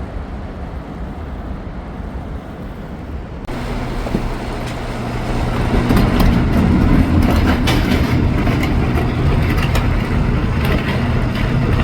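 New York subway train running, with a steady rumble and the rattle of the car. About three and a half seconds in it turns suddenly louder, with a steady low hum and clattering.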